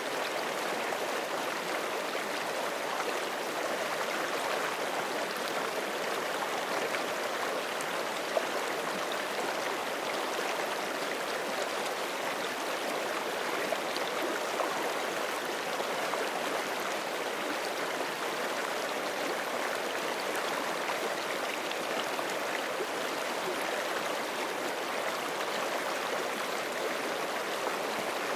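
Forest creek running steadily over rocks: a continuous rushing and gurgling of flowing water with no breaks.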